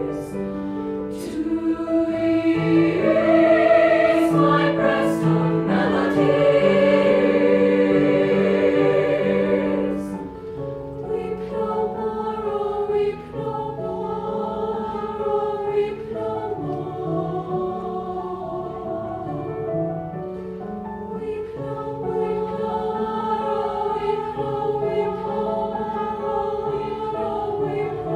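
A high school choir singing in sustained, blended chords, loudest for the first ten seconds or so and then softer.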